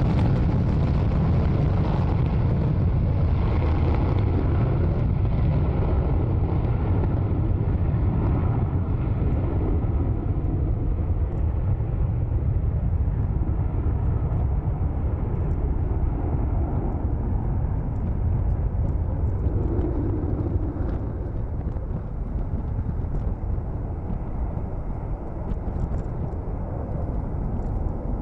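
Jet aircraft engines running, a steady deep rumble with a hiss that gradually fades.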